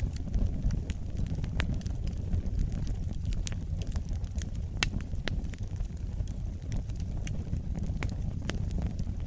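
Wood fire burning in a fireplace: a steady low rumble of flames with irregular crackles and pops throughout, one sharper pop about halfway through.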